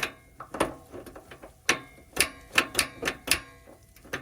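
Buddy Heater propane heater's igniter clicking again and again while lighting the pilot: about a dozen sharp, irregular clicks, the loudest around the middle.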